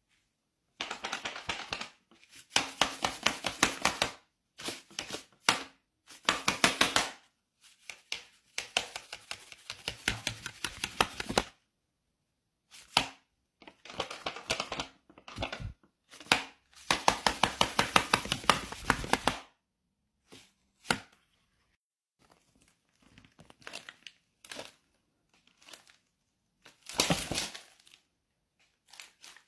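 Stiff paper crinkling and rustling in rapid crackly bursts, as the folded paper of a paper dragon puppet is worked; long bursts of a second or more during the first two thirds, then shorter, sparser crackles.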